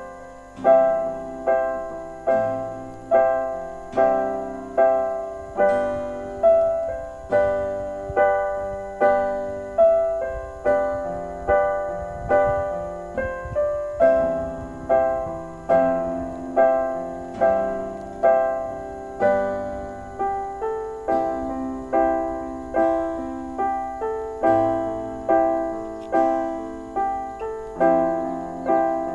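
Background piano music: a gentle, steady run of single notes and soft chords.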